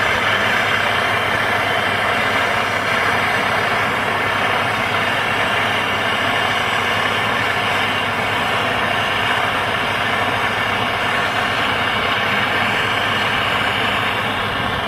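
Steady, unbroken mechanical running noise with a faint low hum underneath.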